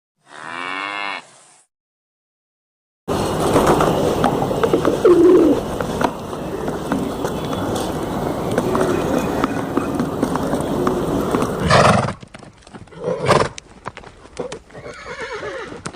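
A short animal call, then a pause, then a long stretch of dense noisy sound. Horses neigh several times in the last few seconds.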